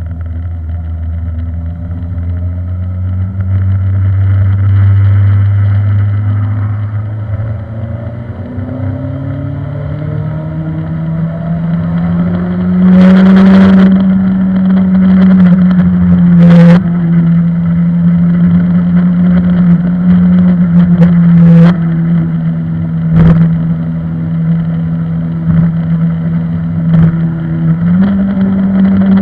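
Suzuki GSX-R 1000 K3 inline-four engine heard onboard at speed, its revs climbing steadily for about the first dozen seconds and then held high, with brief dips and a step up near the end. A few sharp clicks break in over the second half.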